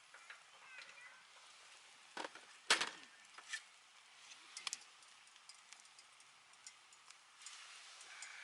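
A few sharp knocks and clicks, the loudest about three seconds in, over a faint outdoor background.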